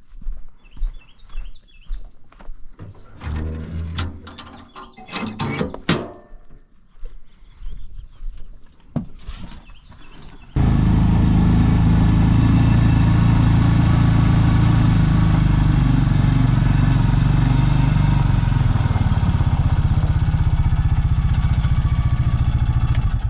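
An engine running steadily, starting suddenly about ten seconds in and cutting off at the end; before it, scattered knocks and rustling.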